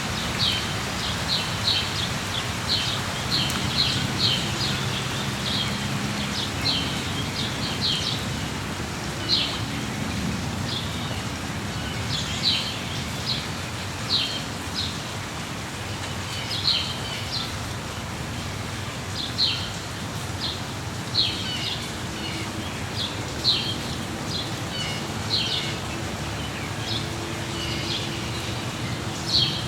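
Rainforest ambience: steady rain with a bird giving short, high chirps every second or two throughout.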